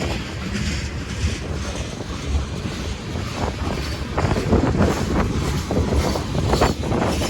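Freight train rolling past: a steady low rumble of the cars, with irregular clacks of wheels over the rail joints.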